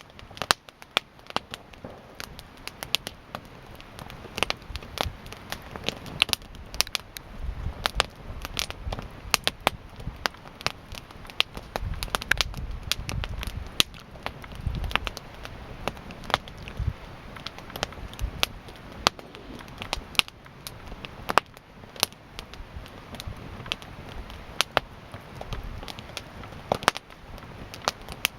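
Wood campfire burning, with sharp irregular pops and crackles of the burning wood over a steady hiss. A low rumble swells and fades at times.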